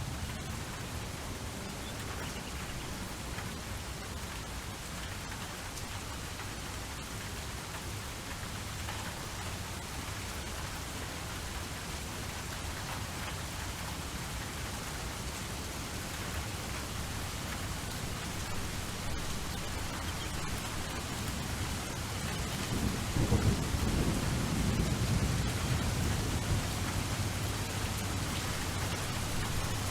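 Steady rain falling, with a low roll of thunder swelling about three quarters of the way through and rumbling for a few seconds.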